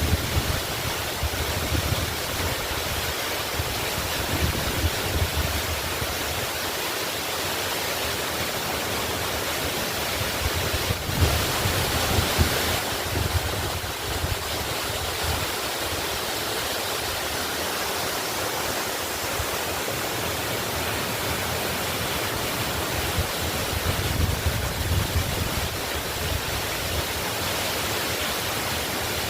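Waterfall pouring steadily, a constant rushing hiss, with uneven low rumbles and a brief louder surge about eleven seconds in.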